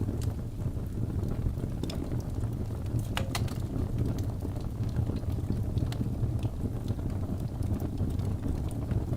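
Wood fire burning in a fireplace: a steady low rumble of the flames with scattered sharp crackles and pops, and a quick cluster of pops about three seconds in.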